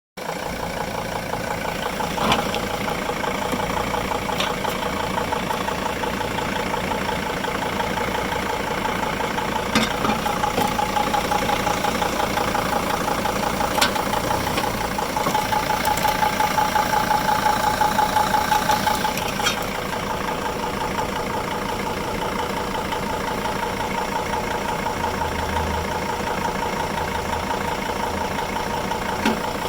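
Machinery running steadily in a Dodge Sprinter's engine bay: a continuous hum with a steady whine, louder for a few seconds in the middle, with a few sharp clicks.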